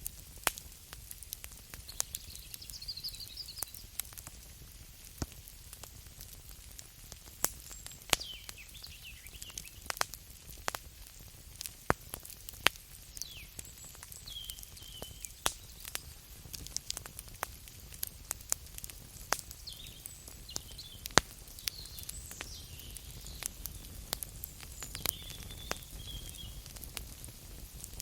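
Campfire crackling: wood burning with irregular sharp pops and snaps over a low hiss. A few faint, high, wavering sounds come and go.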